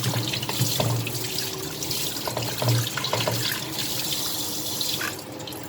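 Kitchen tap running into a sink, with small knocks of things handled under the stream; the water is shut off about five seconds in.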